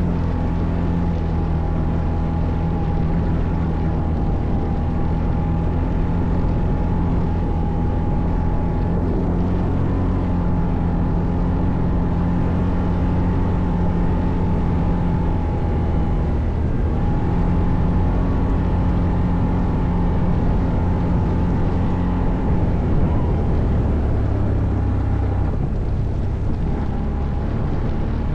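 ATV engine running steadily while riding off-road. Its note drops briefly about sixteen seconds in and shifts lower for a few seconds near the end.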